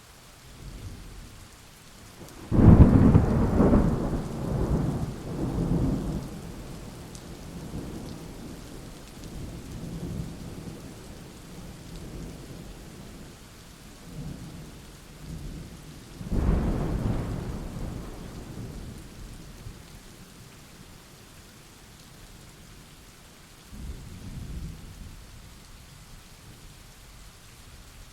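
Steady rain with thunder. A loud thunderclap about two and a half seconds in rolls on in rumbles for several seconds, a second clap comes about sixteen seconds in, and a fainter rumble follows near the end.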